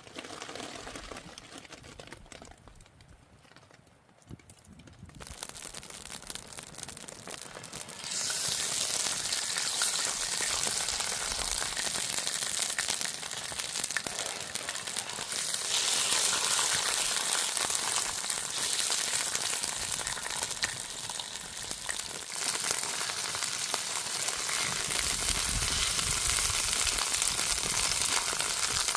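Food frying in hot oil, a hissing sizzle that is faint for the first few seconds, builds, and turns loud and steady from about eight seconds in.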